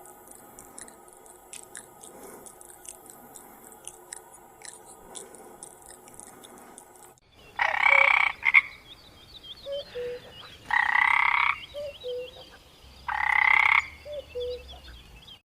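An animal giving three loud, harsh calls of just under a second each, about two and a half seconds apart, with a few short quieter calls between them. The calls follow several seconds of faint hum.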